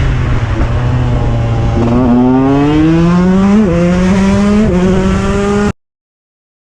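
KTM 125 EXC two-stroke single-cylinder enduro engine accelerating: its pitch falls back, then climbs steadily, with two brief drops as it shifts up through the gears. The sound cuts off suddenly near the end.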